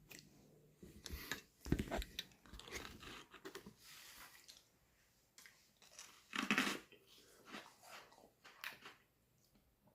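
Biting and chewing of a frozen homemade strawberry lemonade popsicle, with crunchy bites at irregular moments; the loudest come about two seconds in and again about six and a half seconds in.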